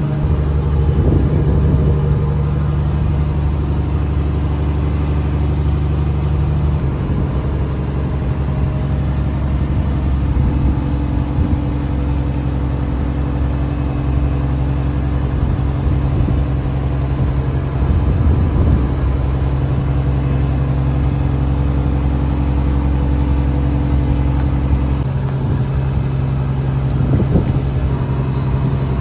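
Fishing trawler's engine running steadily, a continuous low hum, with a faint thin high-pitched whine above it.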